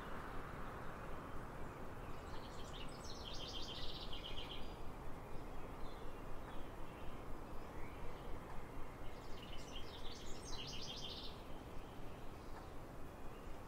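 A songbird sings two short phrases of rapid high notes, the first about two and a half seconds in and the second about nine seconds in, over a steady outdoor background hiss.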